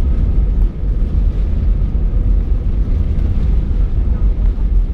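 Steady low rumble of an Airbus A319's engines and airflow heard from inside the passenger cabin.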